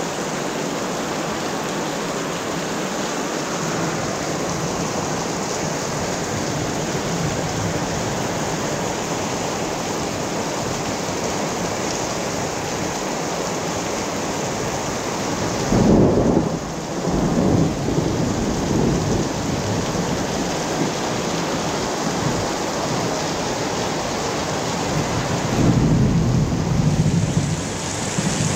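Heavy rain pouring steadily. Two louder low rumbles rise out of it, one just past halfway and one near the end.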